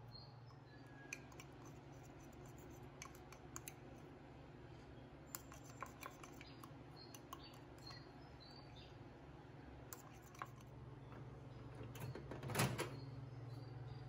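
Metal spoon stirring and scraping batter in an enamel mug: scattered light clinks and scrapes over a steady low hum, with a louder clatter about twelve seconds in.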